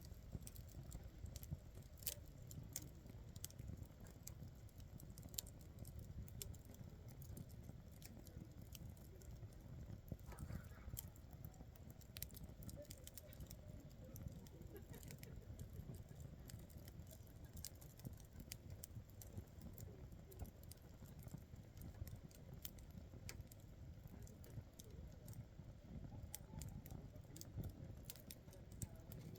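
Campfire crackling faintly: scattered sharp pops and snaps, irregular throughout, over a low steady rumble.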